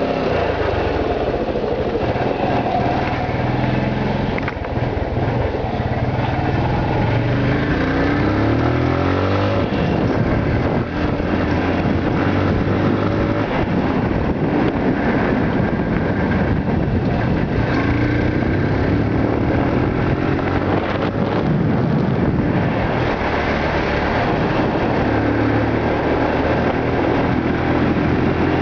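Yamaha YBR motorcycle's single-cylinder engine running while riding, its pitch rising several times as it pulls up through the revs.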